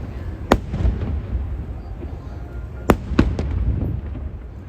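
Aerial fireworks shells bursting: one sharp bang about half a second in, then a quick cluster of three bangs near three seconds, over a continuous low rumble.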